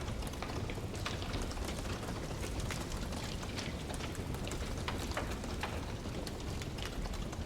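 Wood fire burning with frequent irregular crackles and pops over a steady low rumble.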